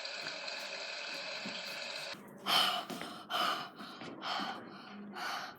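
Steady running water that cuts off about two seconds in, then a person gasping in and blowing out about five sharp breaths, reacting to the burn of a spoonful of Cholula hot sauce in the mouth.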